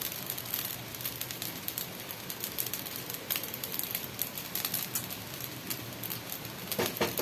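Chicken adobo frying in a pan, a steady sizzle with fine crackling. A short louder sound comes just before the end.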